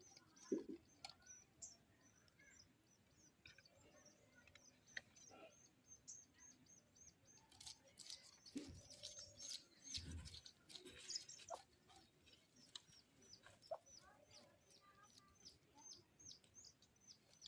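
Faint, quick, evenly repeated high chirps from a small bird, about three a second, pausing in the middle stretch. A few soft low thuds and clicks come in between them.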